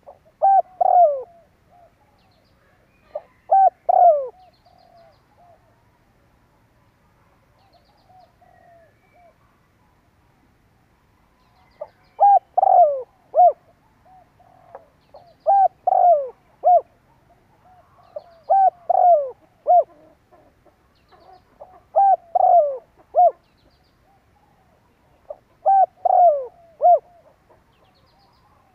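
Spotted dove cooing: a phrase of three or four short coos repeated about every three seconds, with a pause of about seven seconds after the first two phrases, during which only fainter coos are heard.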